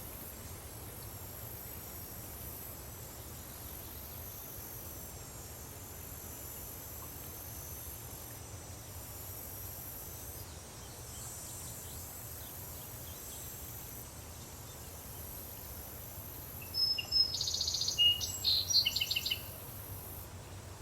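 Daytime countryside ambience: a steady high insect buzz that fades in and out over a low, even background noise. Near the end a bird gives a short burst of rapid chirps and trills.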